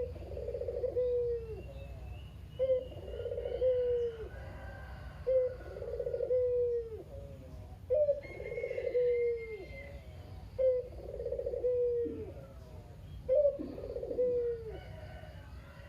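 A puter dove (domestic collared dove) cooing its rolling "ku-ge-ruuu" call over and over, six times about every two and a half seconds. Each call is a short note, then a rolling trill, then a falling end note.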